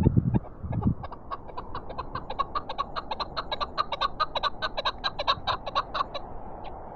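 Chukar partridge calling a rapid series of short clucking chuck notes. The run starts about a second in, speeds up and stops about a second before the end, over steady wind noise. Wind rumbles on the microphone in the first second.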